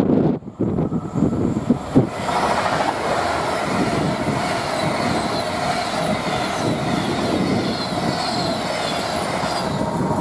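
A train passing at speed: a steady rush of wheels on rail with some clickety-clack sets in about two seconds in and holds until near the end. Wind buffets the microphone at the start.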